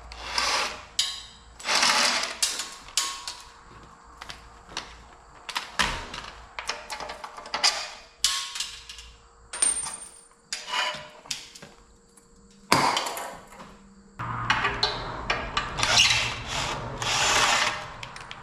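Hand tools working on metal machine parts: a series of short, irregular scraping and clanking bursts. A steady low hum comes in about two-thirds of the way through.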